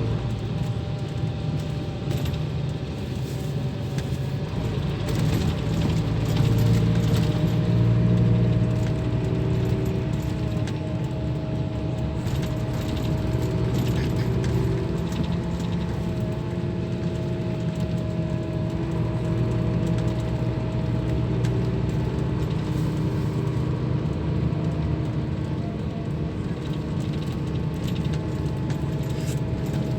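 Scania K340 bus diesel engine running steadily, a low drone whose pitch drifts slowly up and down, with light clicking and rattling over it.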